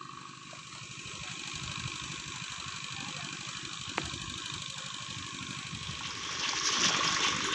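A small engine running steadily at idle-like speed. Near the end, a loud rushing, gushing water sound swells up over it.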